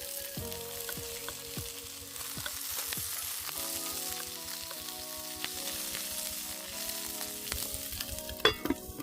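Food sizzling as it fries in a pan over a campfire, a steady hiss with scattered small crackles and clicks, and a sharper knock near the end. Soft background music runs underneath.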